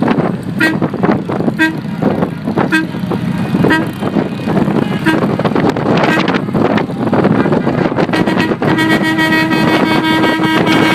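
Motorcycle engines running in a mass ride while vehicle horns give short toots about once a second, then one long horn blast held from about two-thirds of the way in.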